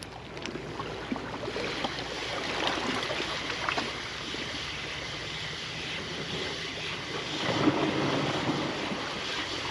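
Ocean surf washing onto the beach, with wind on the microphone; the noise swells a little louder about three-quarters of the way through.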